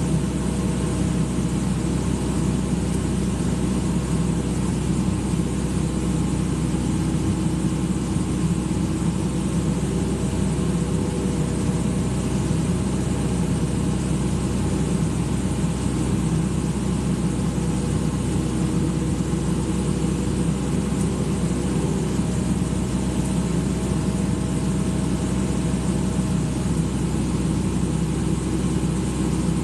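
Excavator's diesel engine running steadily, a constant low drone that holds the same pitch throughout.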